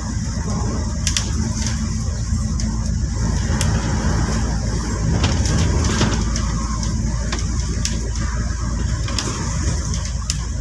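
Steady low rumble of city street traffic, with scattered sharp clicks over it.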